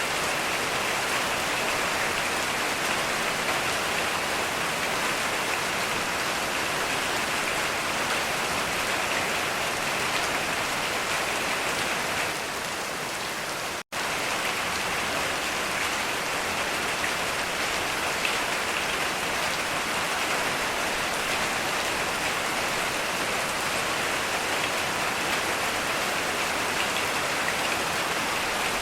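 Heavy rain falling steadily. The rain dips slightly and cuts out for an instant about halfway through, then carries on as before.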